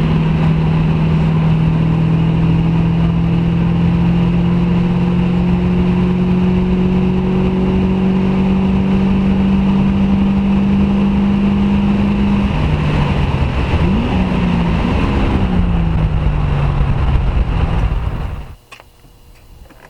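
1996 Ford Mustang GT's 4.6-litre V8 running under load, its exhaust note climbing slowly and steadily in pitch. About twelve seconds in the pitch drops, rises and falls once briefly, then falls away. The sound cuts off near the end.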